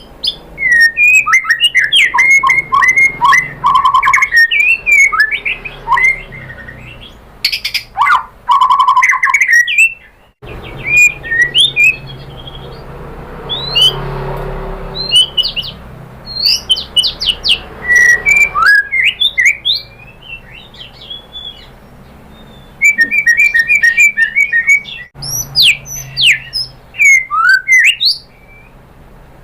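White-rumped shama (murai batu) in loud full song: rapid runs of varied whistles, trills and chattering phrases, with short breaks between bursts. About halfway through, a rushing hiss sits under sparser phrases.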